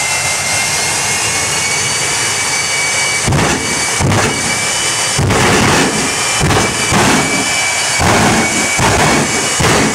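Jet truck's jet engine running with a steady high turbine whine. From about three seconds in, irregular loud rushing surges come one after another over the whine.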